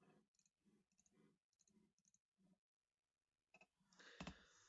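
Near silence with a few very faint clicks about every half second, and one sharper click near the end.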